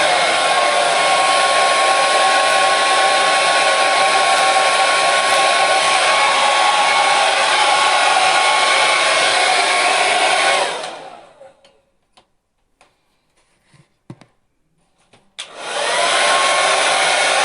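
Electric hair dryer blowing steadily, a loud rush of air with a high motor whine. About eleven seconds in it stops and the whine falls away over a second. After a few seconds of near silence with faint clicks it starts again with a click, and the whine rises back to full.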